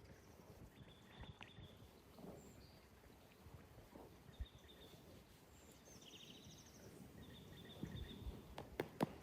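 Faint outdoor quiet with small bird chirps and trills now and then. Near the end, a horse's hooves start clicking on hard ground.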